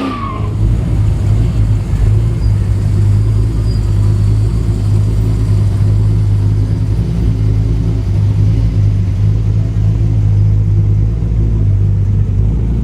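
Classic car's engine giving a deep, steady rumble at low cruising speed.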